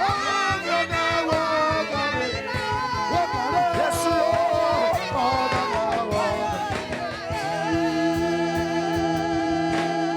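Gospel worship music: singing voices with instrumental backing over a steady drum beat, ending on long held notes.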